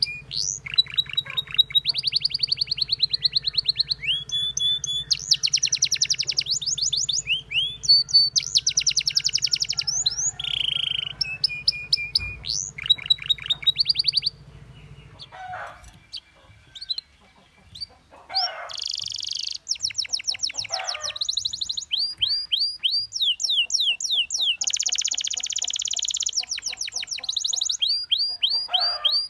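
Domestic canary singing a long song of rapid trills and rolls, fast runs of rising notes repeated in quick series, with a pause of a couple of seconds about halfway before the song resumes. A low steady hum runs underneath and stops about halfway.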